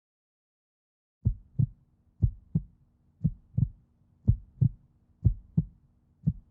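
Heartbeat: paired low thumps, lub-dub, about once a second, starting about a second in over a faint steady hum.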